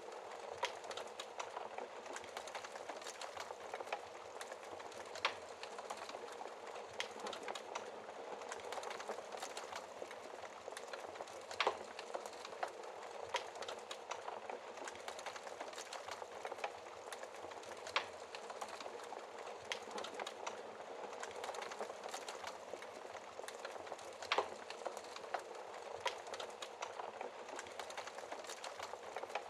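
Wood fire burning in a fireplace, crackling steadily with scattered sharp pops, a few of them louder than the rest.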